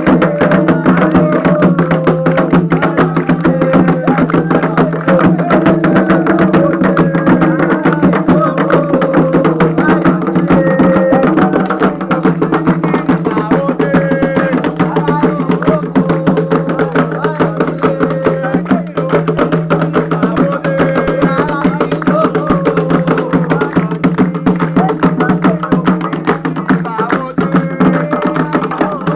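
Candomblé ritual music: hand drums (atabaques) and a struck percussion instrument keep up a fast, steady rhythm while voices sing over them.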